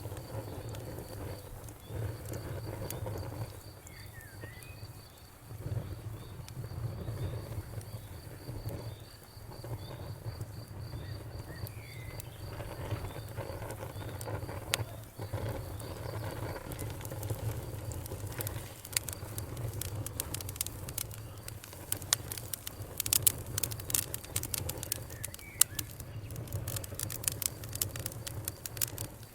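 Wood fire crackling over a low steady rumble of the flames; the snaps grow denser and sharper in the last third.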